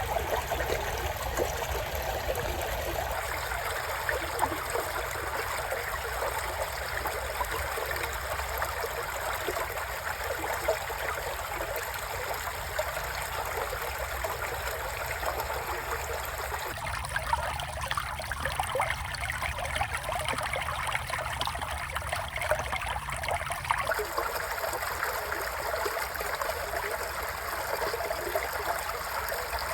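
Creek water flowing and trickling steadily, with small splashes. The character of the water sound changes abruptly three times, as if moving between spots along the stream.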